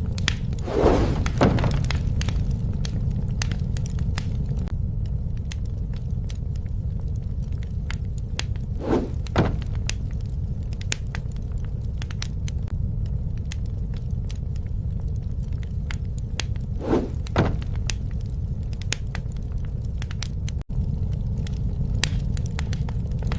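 Campfire crackling: a steady low rumble of burning wood with many sharp snaps and pops. A pair of brief louder swells recurs about every eight seconds.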